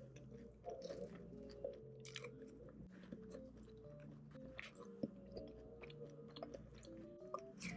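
Close-up chewing and crunching of a crispy fried cheese ball, many small crisp bites and mouth clicks, over soft background music with a simple stepping melody.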